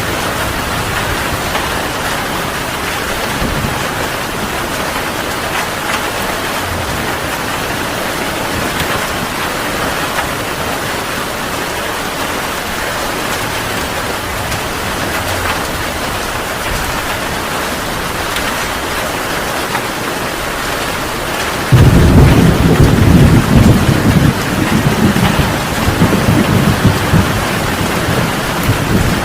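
Heavy rain falling steadily. About three-quarters of the way through, a loud thunderclap breaks in suddenly and rolls on as a deep rumble under the rain.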